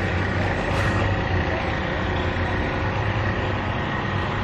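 Steady low rumble of vehicle engines running at idle.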